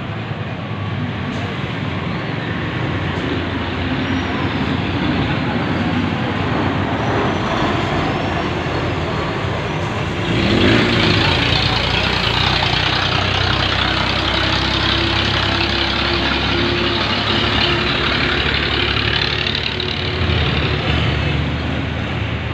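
Motor vehicle engines running with a steady low rumble. About halfway through, a loud hiss starts suddenly and lasts around ten seconds before easing off.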